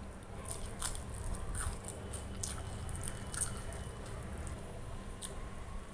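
Close-miked eating sounds of someone chewing a mouthful of pea pulao rice: soft wet chewing with scattered sharp mouth clicks and smacks, over a steady low hum.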